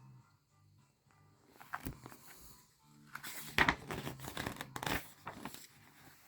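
Paper rustling as a book's page is handled and turned: a brief rustle about two seconds in, then a longer, louder rustle from about three to five seconds in.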